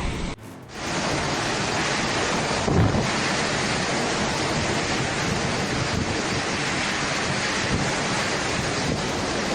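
Steady rushing noise of a typhoon: strong wind buffeting the microphone together with rushing water, with a short drop about half a second in.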